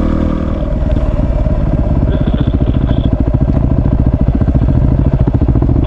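Single-cylinder dual-sport motorcycle engine running under the rider. About half a second in, its steady note gives way to a fast low pulsing, as at lower revs.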